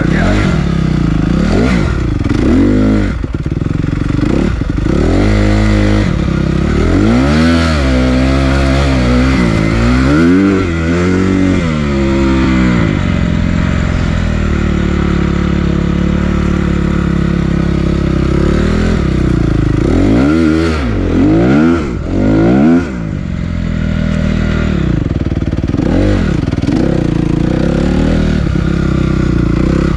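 Honda CRF250R dirt bike engine running under a rider, its pitch rising and falling repeatedly as the throttle is opened and closed, with steadier stretches in between.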